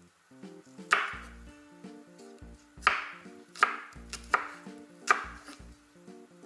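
Kitchen knife cutting through food onto a cutting board: five separate sharp strikes, spaced unevenly about a second apart.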